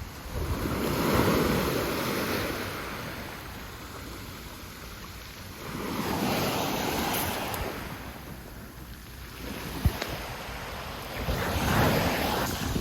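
Sea waves washing in on the shore, three surges about five seconds apart, with wind on the microphone. A single sharp click comes about ten seconds in.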